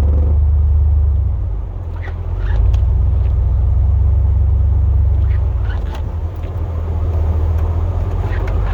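Plow pickup truck's engine and drivetrain running under load, heard from inside the cab as a deep steady rumble that eases off briefly twice.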